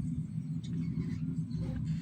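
A steady low hum, with a few faint short sounds higher up.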